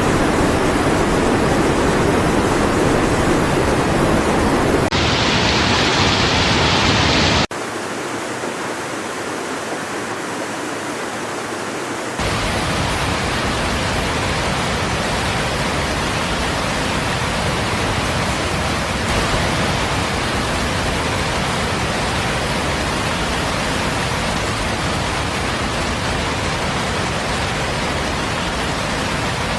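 Loud, steady rushing of heavy water, like floodwater or downpour, made up of several spliced clips: the sound changes abruptly about five, seven and twelve seconds in.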